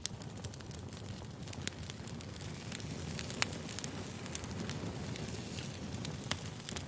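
Firewood burning: a low steady rumble of flames with irregular sharp crackles and pops, the loudest pops about three and a half seconds and six seconds in.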